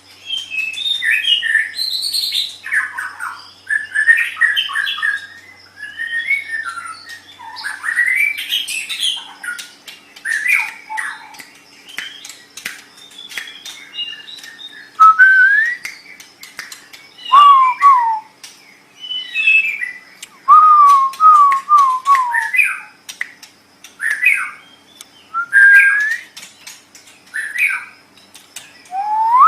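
White-rumped shama (murai batu) singing a long, varied song of short phrases with whistles, chirps and fast slurred chatter. In the second half come clear whistled glides and quick runs of repeated falling notes, the loudest of them about two-thirds of the way through and again right at the end.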